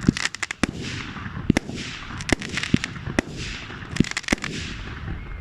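Fireworks going off: a string of sharp bangs, roughly one every half second to second with a quick cluster at the start, and crackling hiss between them.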